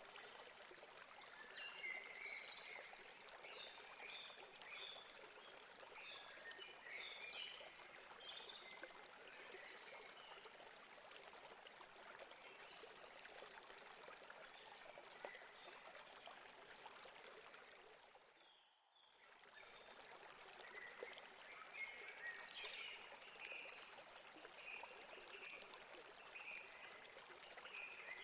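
Faint steady rush of a stream running over rocks, with small birds chirping through it. About two-thirds of the way through, the sound fades almost to nothing for about a second and comes back.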